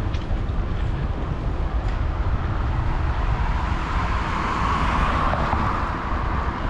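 Wind buffeting the microphone of a moving bicycle, with road traffic noise that swells about four seconds in, as a vehicle passes, and then eases.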